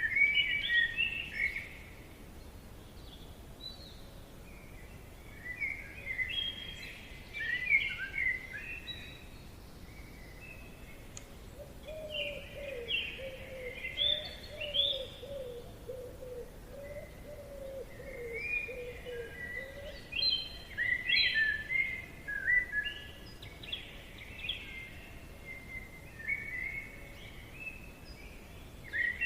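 Songbirds singing in a forest: phrases of quick chirping notes every few seconds, with a lower, wavering call joining from about twelve to nineteen seconds in, over a faint steady background hiss.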